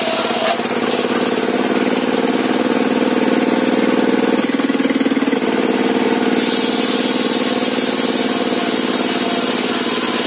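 Sawmill table saw's drive engine running steadily with the blade not cutting, with a brief shift in tone about four and a half seconds in.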